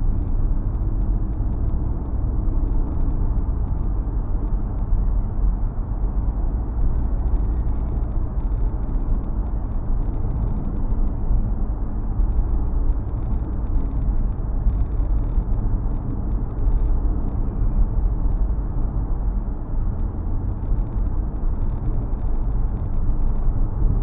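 Steady road and engine rumble of a 2017 Nissan Rogue driving at road speed, with faint, irregular light rattles over it.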